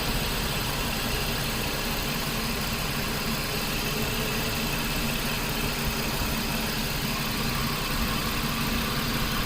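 Nissan Pathfinder's 4.0-litre V6 engine idling steadily, heard from the open engine bay. The A/C is on, but the compressor clutch is not engaging, so the compressor is not turning.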